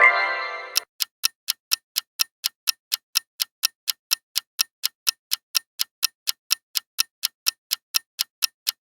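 Quiz countdown timer sound effect: steady clock ticking at about four to five ticks a second. A short rising pitched tone opens it and fades out within the first second.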